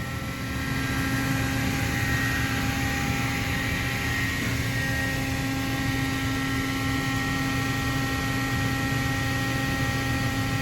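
Steady hum of shipboard ventilation and machinery, an even drone with several steady tones, growing slightly louder about a second in.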